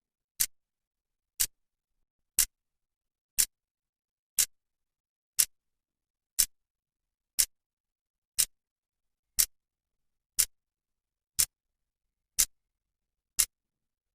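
A clock's second hand ticking, one sharp click each second and nothing in between.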